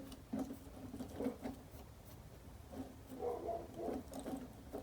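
Faint, scattered clicks and light taps of engine parts being handled and turned over by hand.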